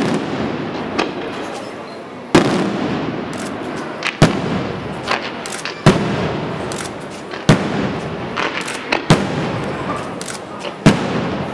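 Fireworks display: six loud aerial shell bursts, evenly spaced every second and a half to two seconds, over a continuous dense crackling of smaller pops.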